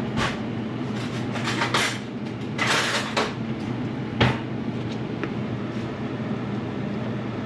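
Kitchen cooking sounds over a steady low appliance hum: a few short rushing or scraping noises in the first three seconds and a single sharp knock a little past four seconds, as pots and utensils are handled at the stove.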